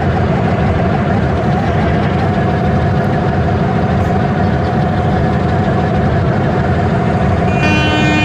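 Train engine running steadily with a low rumble. About 7.7 seconds in, a train horn starts, a chord of several steady tones, and keeps sounding to the end.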